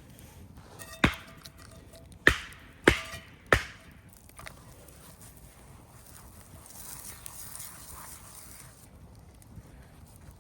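Four sharp knocks: one about a second in, then three in quick succession about 0.6 s apart, the first with a faint ring after it. A faint hiss follows for a couple of seconds.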